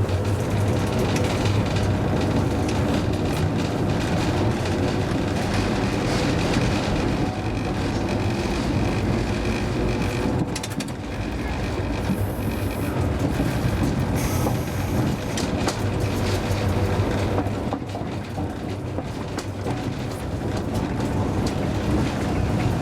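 Hakodate city tram car 530 running along its line: a steady motor hum over the rumble of wheels on rail, with brief high squeals from the wheels about 12 and 14 seconds in.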